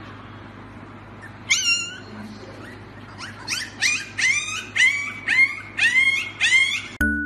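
Husky puppy whimpering in high-pitched cries: one cry about a second and a half in, then a run of about eight rising-and-falling cries, roughly two a second, over a faint steady low hum. Music cuts in near the end.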